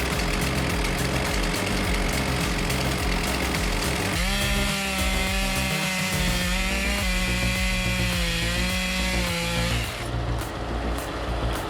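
Machinery noise, then a chainsaw running hard at high revs for about five seconds, its pitch wavering slightly under load before it stops.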